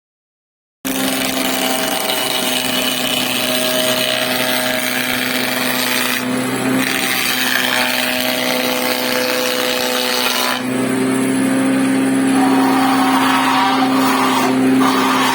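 An electric woodworking power tool running with a steady hum and cutting into wood with a dense hiss, starting abruptly about a second in. The sound changes abruptly a few times, as from one cut of work to the next.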